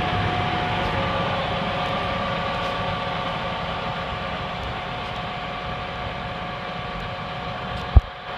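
John Deere 8235R tractor's diesel engine running steadily with a low hum and a few held whining tones, gradually getting a little quieter. A single sharp thump comes near the end.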